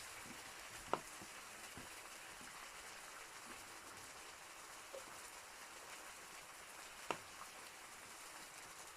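Wood fire burning in a fireplace: a steady soft hiss with scattered small crackles and two sharp pops, one about a second in and a louder one about seven seconds in.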